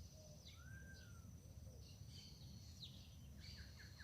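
Faint birdsong: several short high chirps and a slurred whistle that rises then falls, with a quick run of repeated notes near the end.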